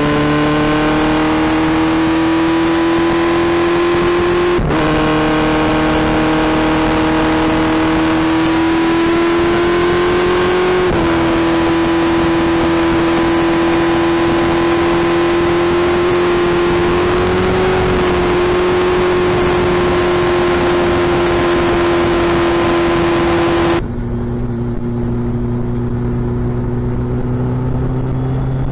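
Suzuki Hayabusa's inline-four engine running loud through its exhaust at high, slowly climbing revs, the pitch stepping down slightly twice before holding steady. Near the end the sound suddenly drops to a lower, duller note.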